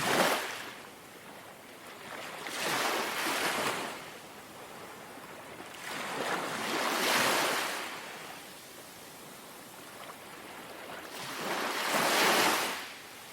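Gentle sea waves lapping and washing on the shore: four soft surges a few seconds apart, each swelling and then fading back.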